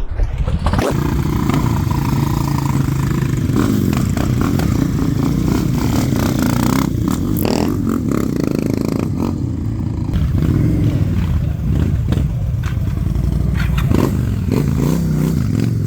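Motorcycle engine running, with a steady note and a few short sharp knocks in the middle and near the end.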